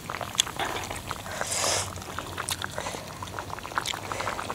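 Hotpot broth simmering on a gas stove, with scattered small clicks and a short hiss about a second and a half in.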